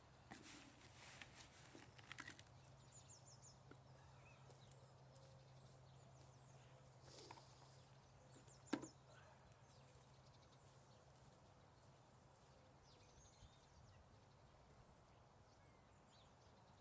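Near silence: faint outdoor ambience with a low steady hum, scattered soft rustles and high ticks, and one sharp click a little past halfway.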